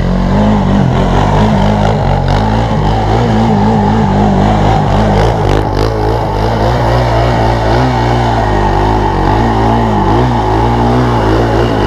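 Small off-road vehicle engine running hard close by, its pitch rising and falling as the rider works the throttle.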